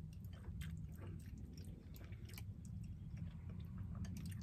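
A person chewing a mouthful of pasta and ground beef, with small scattered clicks of a metal fork in the bowl, over a low steady hum.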